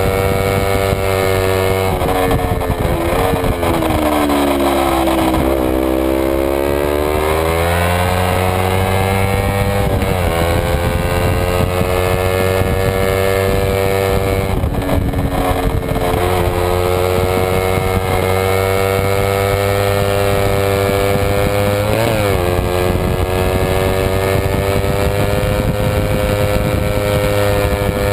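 Kawasaki Ninja 250's parallel-twin engine, heard onboard at racing speed and held high in the revs. About three seconds in the pitch falls away and climbs back as the throttle is rolled off and on again. Brief dips later on mark quick gear changes.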